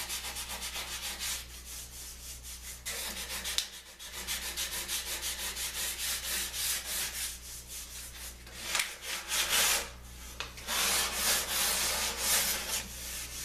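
Back-and-forth rubbing on wood, in runs of quick repeated strokes with a few short pauses, over a steady low hum.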